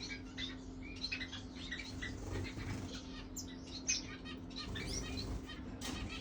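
Birds chirping in many quick, short, high notes, with a steady low hum underneath.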